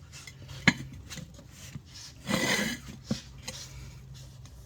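Metal tools scraping and clicking against a lawn tractor wheel rim as a tire bead is levered onto it: a few sharp clicks and a longer scrape about two seconds in.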